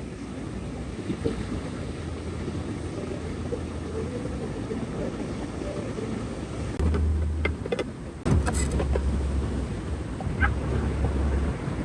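Steady wind and sea noise, with a low wind rumble on the microphone that comes and goes. A few light clicks and knocks fall about seven to eight and a half seconds in, and one more near ten and a half seconds.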